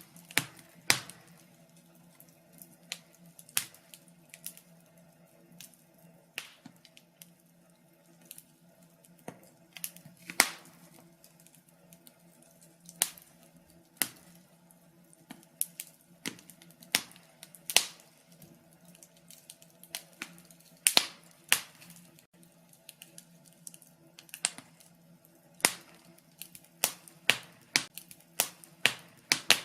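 Wood fire crackling in a fireplace: irregular sharp pops and snaps, a few of them loud, spaced anywhere from a fraction of a second to a couple of seconds apart, over a faint steady low hum.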